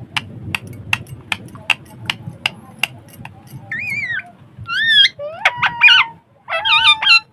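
A run of sharp, evenly spaced clicks, about three a second, then a pet parrot calling: short, loud squawks whose pitch bends up and down, coming closer together over the last three seconds.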